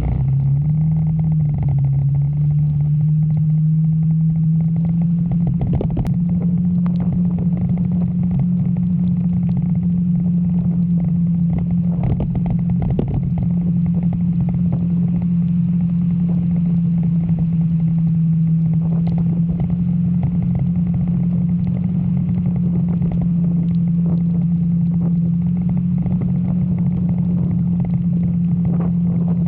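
Motorcycle engine running steadily at cruising speed, its pitch rising a little over the first few seconds as it picks up speed and then holding level. Scattered short knocks are heard over a constant rush of noise.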